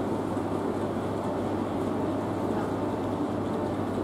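Steady, even rumble of a train at a station platform, with a low steady hum underneath.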